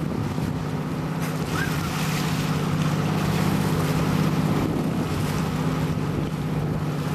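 Motorboat engine running steadily underway, with a constant low hum, under rushing wind and water noise.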